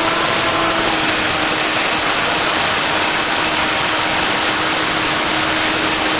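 Sawmill machinery running: a loud, steady hiss with a steady hum underneath.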